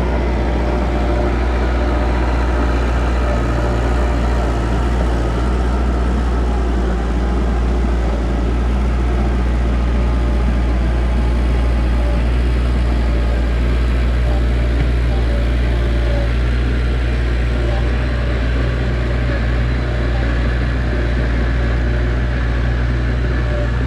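Heavy diesel earthmoving machine engine running steadily, a constant low drone.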